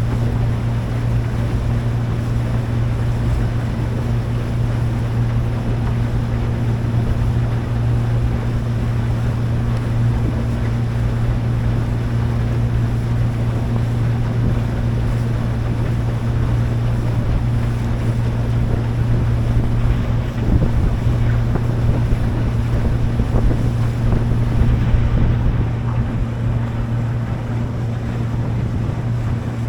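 A motorboat engine running steadily with a constant low hum, under the rush of water and wind buffeting the microphone.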